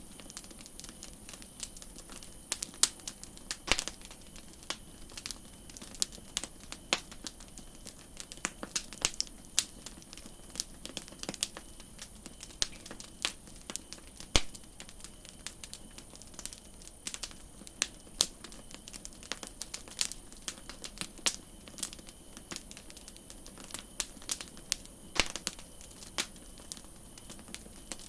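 Wood campfire crackling: irregular sharp pops and snaps, some loud and many faint, over a steady low hiss.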